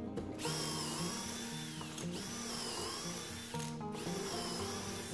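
DeWalt brushless cordless drill boring dowel holes into butternut through a metal doweling jig. It runs in three bursts with short pauses between them, and its motor whine dips and rises as the bit loads up. Guitar music plays quietly underneath.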